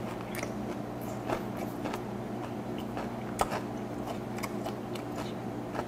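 Close-up chewing of a mouthful of fermented skate (hongeo) with aged kimchi, mouth closed: soft wet clicks and squishes at irregular moments, picked up on a lapel microphone, over a steady low hum.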